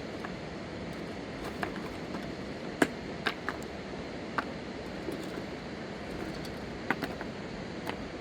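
Steady rushing noise of a river, with a dozen or so scattered sharp knocks and clicks at irregular intervals.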